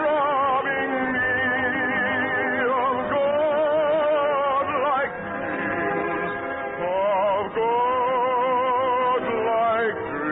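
Orchestral opera music: a slow, sustained melody of long held notes sung or played with wide vibrato, moving to a new note every second or two.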